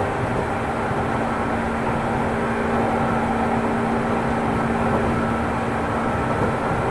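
Interior running noise of a JR East 205 series electric train motor car, with externally fan-cooled traction motors: a steady rumble of wheels on rail under a constant motor hum. A steady low tone in the hum drops out near the end.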